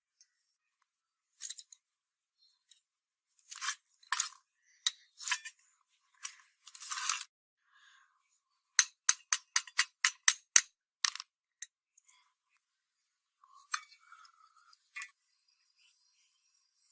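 Short scraping strokes and sharp clicks of hand work, with a quick run of about nine clicks at roughly four a second around the middle.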